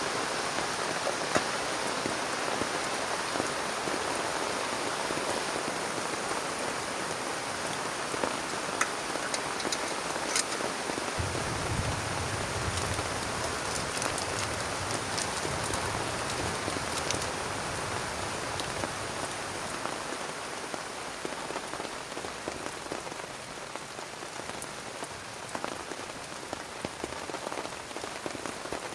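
Heavy rain pattering on a plastic tarp as a dense steady hiss with scattered sharper drop hits. A low rumble sets in about a third of the way through and fades several seconds later. The rain lightens a little toward the end.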